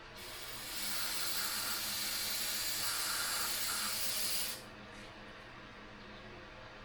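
Aerosol spray can hissing in one steady spray, spraying out carburetor parts to clean them. It builds over the first second and cuts off suddenly about four and a half seconds in.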